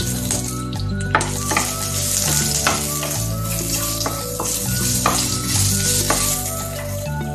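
Crushed ginger, garlic and curry leaves sizzling in hot oil in a non-stick frying pan, with a spatula stirring and tapping against the pan; the sizzle grows about a second in as the stirring starts. Background music with a steady bass line plays underneath.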